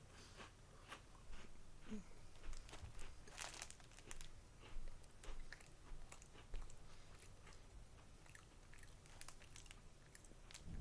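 A person biting and crunching a Doppelkeks biscuit: a run of irregular crisp crunches, the loudest about three and a half seconds in.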